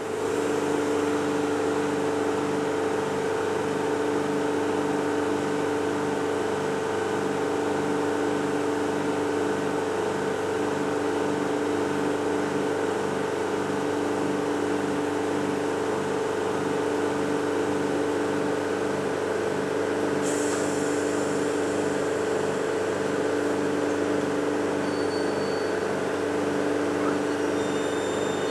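VR Sr1 electric locomotive humming steadily, with two steady tones and a regular low pulsing beneath them. A short hiss about twenty seconds in.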